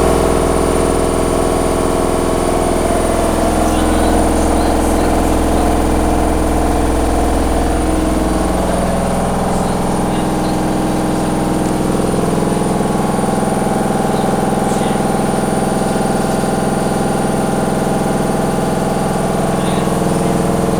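Candy washer-dryer running at speed, its motor and drum giving a loud steady hum made of several tones. About eight seconds in, the low hum drops away and the tones shift, as the drum's speed changes.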